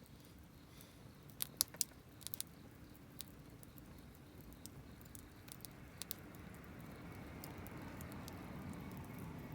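Wood campfire crackling: scattered sharp pops and snaps, a quick cluster of them a second or two in and a few more later, over a low rushing of the flames that swells over the last few seconds.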